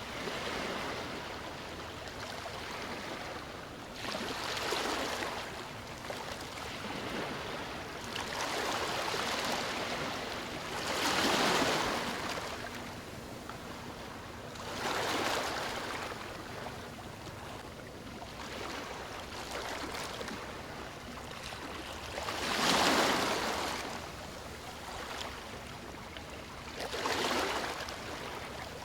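Sea waves breaking and washing up a beach: a constant hiss of surf that swells into a louder surge every few seconds, strongest about a third of the way in and again near two-thirds.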